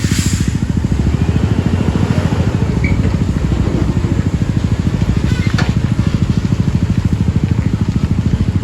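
Scania R410 heavy-haul truck's diesel engine running steadily under load, with a rapid, even throb.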